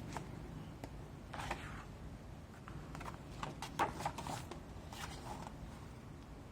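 Faint paper rustling with a few light clicks, from a book's pages being handled and turned.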